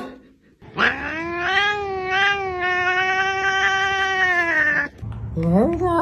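A domestic cat yowling: one long drawn-out caterwaul that rises at first, then holds with a slight waver for about four seconds. Another voice with stepping pitch starts near the end.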